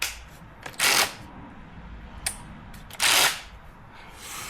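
Impact wrench fired in two short bursts, about two seconds apart, on a rear shock bolt that does not break loose.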